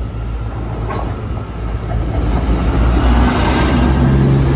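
Diesel train approaching and running past a level crossing, its engine and wheel noise growing steadily louder. A sharp click sounds about a second in.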